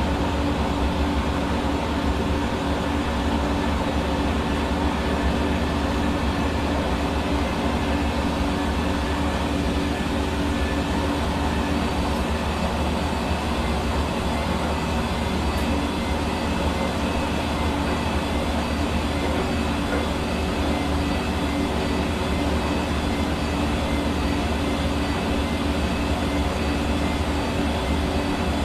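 Hair dryer running continuously: steady rushing airflow over a constant motor and fan hum with a few steady tones.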